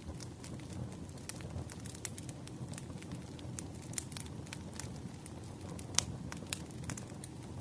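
Wood fire burning, a low steady rumble with irregular sharp crackles and pops, one loud pop about six seconds in.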